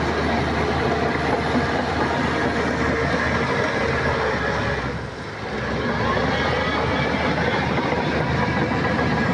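Heavy earthmoving machinery's diesel engine running steadily under work. It eases off briefly about five seconds in, then comes back up.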